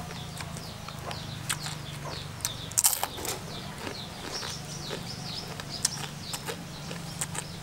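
Birds chirping over and over in short, quick falling notes, with a low steady hum underneath and scattered sharp clicks, the loudest a cluster about three seconds in.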